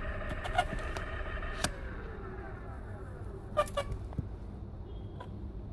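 E-bike's electric motor whining under power, holding a steady pitch and then sliding down and fading about two seconds in as it eases off, over a low rumble of riding noise, with a few sharp clicks.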